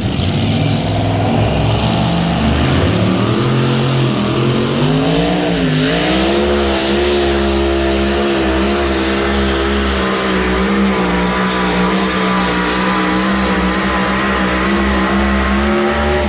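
Engine of a high-horsepower pulling truck or tractor at full throttle under load. The revs climb over the first few seconds, dip sharply about six seconds in, then hold high and steady.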